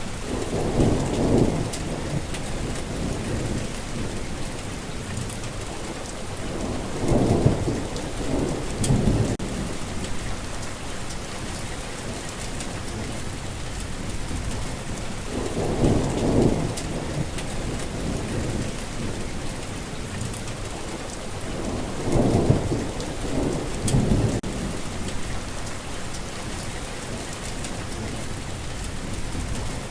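Heavy rain falling in a steady hiss, with rolls of thunder rumbling low about every seven seconds, each lasting a couple of seconds.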